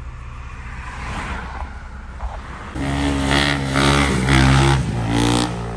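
Motorbike engine running low, then revved louder from about three seconds in, in a few held blips that break off and pick up again.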